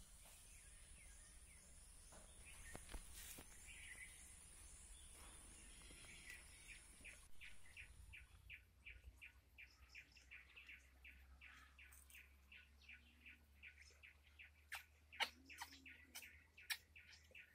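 Faint birdsong: a run of short, high chirps repeating about two or three times a second, with a few louder calls near the end.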